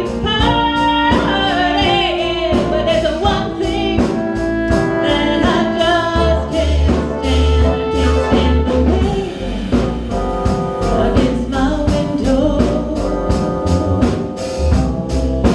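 Live blues band playing a slow soul tune, with a singer, a steady drum beat and bass.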